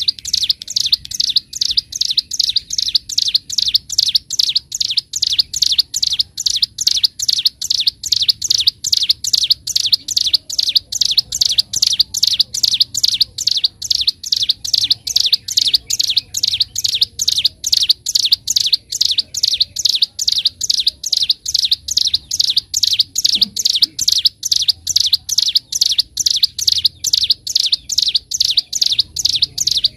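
A ciblek gunung songbird singing in a long, unbroken series of high chirps repeated evenly at about three a second.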